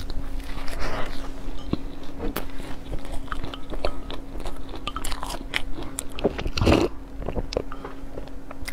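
Close-miked biting and chewing of crumb-topped cream puffs, with soft crunches and many small clicks. A spoon stirs in a glass mug of corn porridge partway through, and one louder rushing sound comes about two-thirds of the way in.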